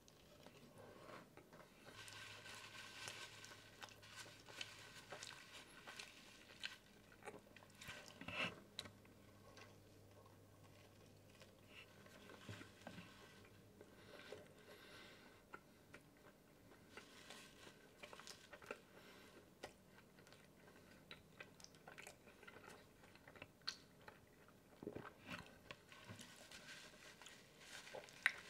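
Faint, close-miked eating sounds: biting and chewing a California burrito, with scattered small clicks.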